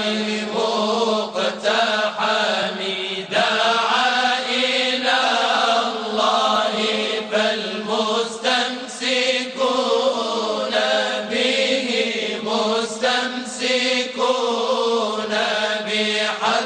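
Moroccan prophetic-praise chant (madih): a voice singing long, wavering melodic lines over a steady drone.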